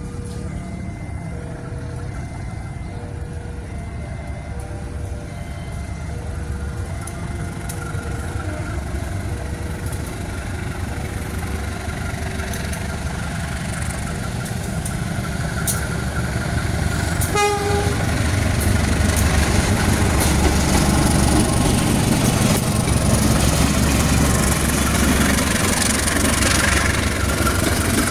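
A level-crossing warning signal beeps about once a second while a diesel-hauled passenger train approaches. A short horn blast comes about two-thirds of the way in. Then the locomotive's engine and the coaches' wheels on the rails grow louder as the train passes.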